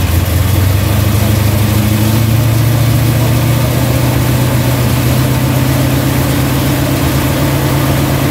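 1968 Chevelle SS's V8 running at a steady idle on a chassis dyno, its note edging up slightly about two seconds in and then holding steady.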